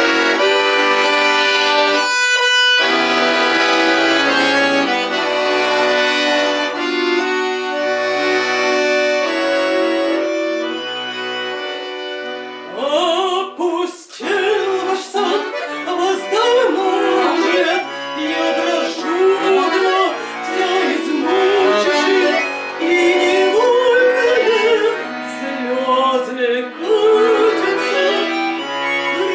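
A Russian romance performed: an instrumental passage of held, sustained chords, then a singer comes in about halfway and sings with vibrato over the accompaniment.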